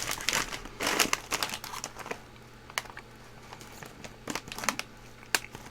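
Plastic snack wrappers crinkling as they are handled, busiest in the first second or so, then a few fainter rustles and clicks.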